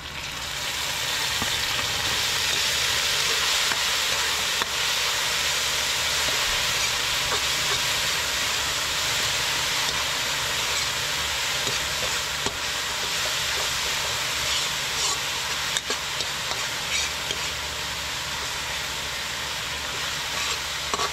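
Bagoong (fermented shrimp paste) frying in hot oil with browned garlic, onion and ginger in a wok, being sautéed: a steady sizzle that swells up within the first second as the paste goes into the pan and then holds, with a few light scrapes of stirring.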